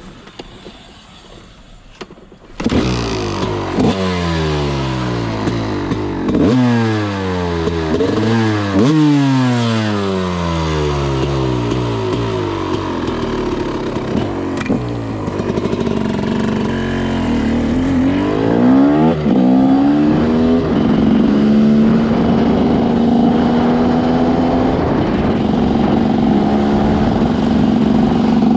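Single-cylinder two-stroke engine of a TM SMR 300 supermoto ridden at full throttle. After a couple of quieter seconds the engine note comes in loud, and the revs climb and fall again and again as the bike accelerates through the gears. It settles into a steadier pitch for the last several seconds.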